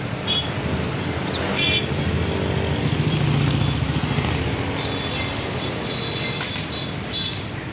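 A motor vehicle's engine running close by, louder around the middle and then easing off, with a few light metallic clinks.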